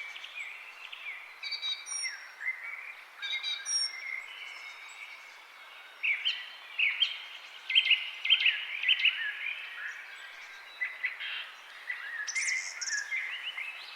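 Several songbirds chirping and whistling over a light background hiss. The calls are short, slurred notes, with a busy run of quick notes in the middle and a few higher-pitched calls near the end.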